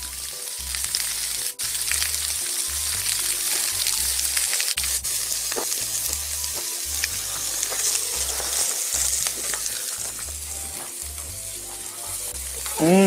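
Pork belly and kimchi frying in fat on a cast-iron cauldron lid over a wood fire: a steady sizzle with small pops.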